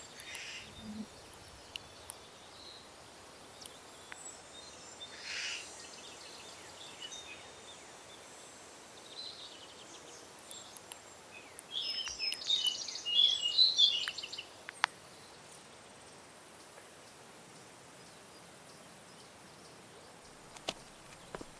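Countryside ambience: small birds calling and singing intermittently over a faint steady high hiss, with a louder burst of bird song a little past the middle.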